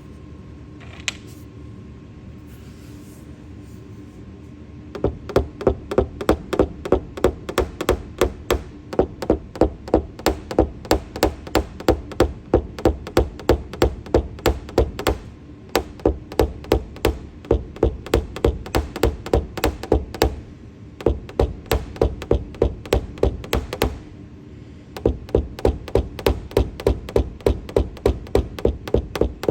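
Quick, even taps of a paintless dent repair hammer and tap-down tool on a car's roof panel, about three a second, knocking down high spots around a glue-pulled hail dent. The tapping starts about five seconds in and stops briefly a few times.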